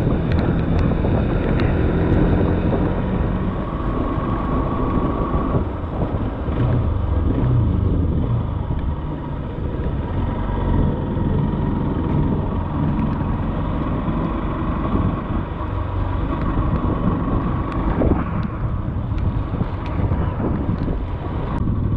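Single-cylinder motorcycle engine running at low road speed as the bike slows on wet asphalt, with wind rushing over the helmet-mounted microphone. The engine note shifts up and down with the throttle.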